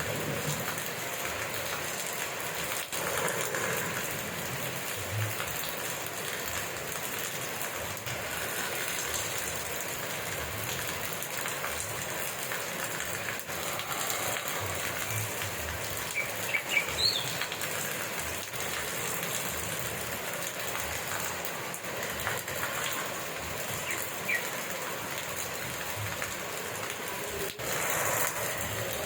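Steady rain falling, an even hiss of drops on surfaces. A few brief higher-pitched sounds stand out about halfway through.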